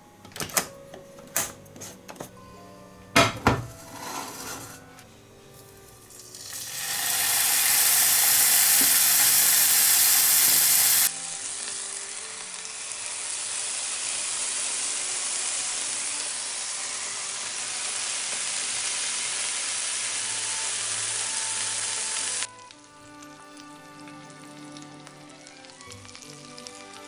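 Food frying in a hot pan: a few sharp knocks of utensils on cookware in the first seconds, then a loud sizzle that builds about six seconds in and keeps going until it cuts off near the end.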